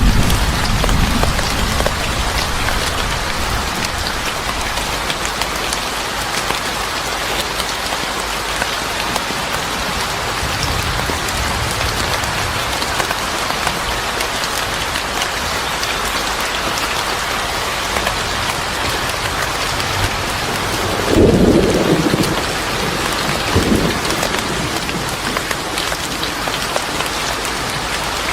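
Steady heavy rain with thunder. A low rumble fades out in the first second, and a short, louder rumble of thunder comes about three-quarters of the way through.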